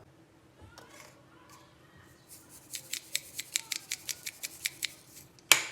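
Knife chopping quickly on a cutting board, about six strokes a second, followed by one louder knock near the end.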